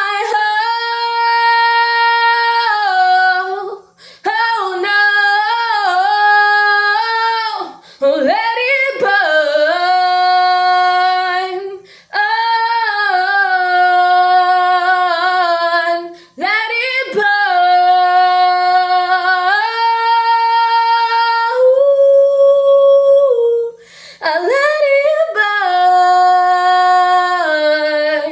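A woman singing unaccompanied, long held vowel notes in a series of phrases of about four seconds each, with short breaths between them.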